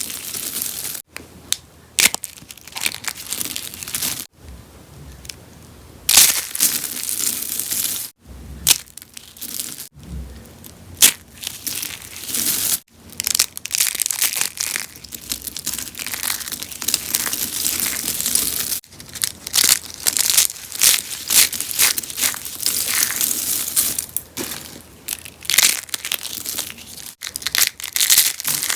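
Rose soap being crunched: a near-continuous run of dry crunching and crackling, with a quieter stretch a few seconds in.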